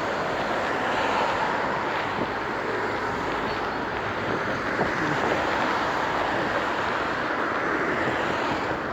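Steady rush of wind on the microphone mixed with road noise from a bicycle ride, without sharp events.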